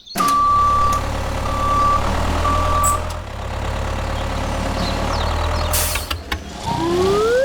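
Heavy vehicle engine running steadily while a reversing alarm sounds three long beeps about a second apart. Near the end the engine stops and a rising whistle-like glide begins.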